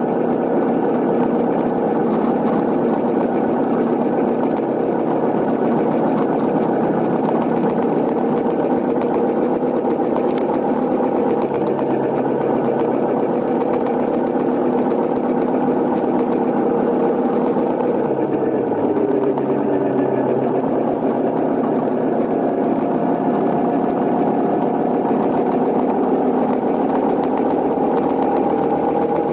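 Honda CRF250L's single-cylinder engine running steadily. Its note dips about two-thirds of the way through, then climbs slowly again.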